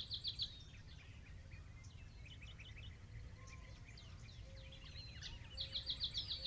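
Faint birdsong: a bird repeats a quick run of about eight high notes right at the start and again near the end, with scattered chirps between, over a low steady rumble.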